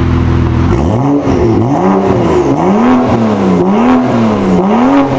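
BMW 535i's N55 3.0-litre turbocharged straight-six through an aftermarket cat-back exhaust, idling steadily and then revved again and again, the pitch rising and falling about once a second.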